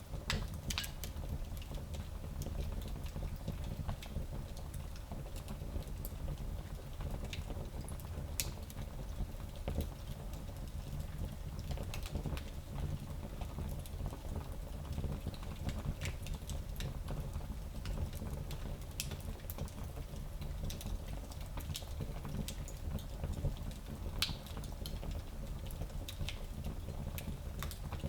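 Wood fire burning in a small fireplace: a steady low rumble of flame with scattered crackles and pops.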